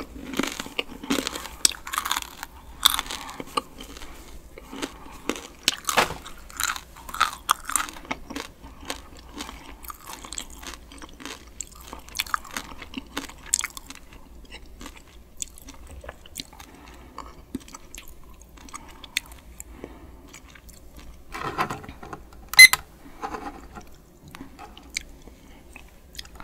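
Close-up crunching and chewing of a Paqui One Chip Challenge spicy tortilla chip, dense for the first dozen seconds or so and then thinning out to occasional chews. About 22 seconds in, a short electronic beep as the digital countdown timer is started.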